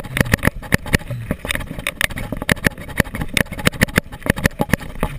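A bicycle rattling and clattering over rough ground, with rapid irregular knocks from the bike and the camera mount, several a second, over the rumble of riding.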